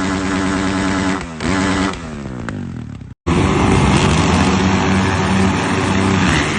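Dirt bike engine running at steady revs, dipping and rising once, then dropping off. After a sudden cut, another dirt bike engine runs loud and hard at high revs.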